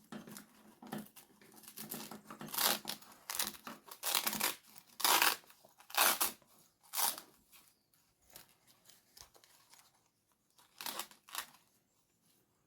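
Hand tools working on a plastic RC truck chassis: a run of short scraping, rasping noises as screws are backed out and parts handled, then two more brief ones near the end.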